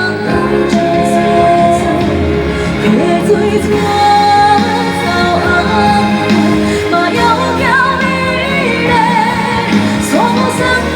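A woman singing a Taiwanese Hokkien pop song live over instrumental accompaniment, with wavering held notes in the second half.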